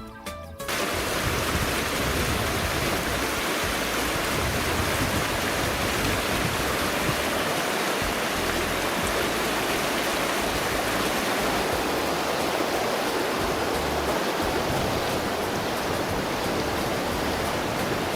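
A fast river's water rushing in a steady, even noise, which comes in abruptly about a second in.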